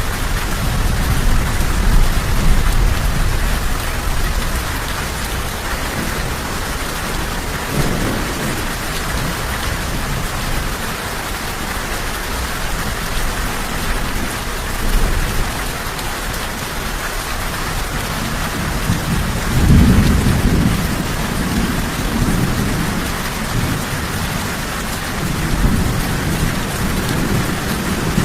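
Steady heavy rain falling, with low rumbles of thunder swelling in the first few seconds, again about twenty seconds in and once more near the end.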